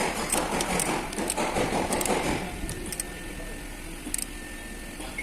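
Tools working on the engine's belt drive: a busy mechanical rattling with many sharp clicks that stops about two and a half seconds in, followed by a few single light clicks.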